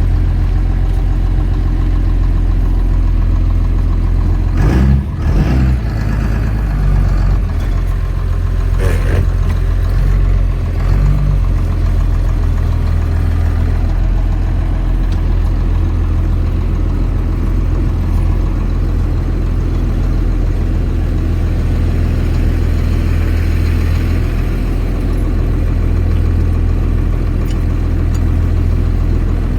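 Cummins turbo diesel in a Chevy C30 pickup idling steadily, with a few brief knocks about five seconds in and another about nine seconds in.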